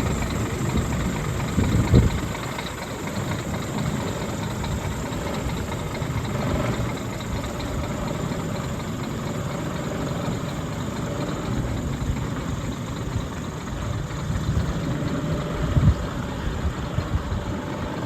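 Scania R480 truck's diesel engine running steadily at idle, with a couple of short knocks, one about two seconds in and one near the end.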